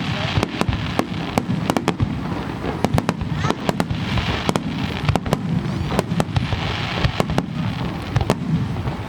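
Aerial fireworks bursting in rapid succession at a large fireworks display: sharp cracks several times a second over a continuous low rumble.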